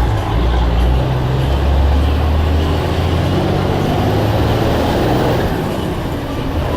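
Blue Bird All American bus's diesel engine running under way, a loud steady low rumble mixed with road noise.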